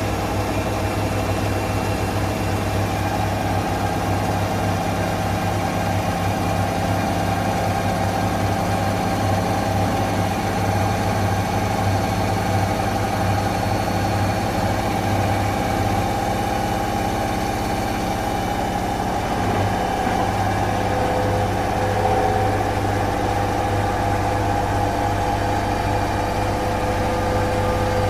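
A motor running with a steady hum and a held whining tone; a second, lower whine joins about twenty seconds in.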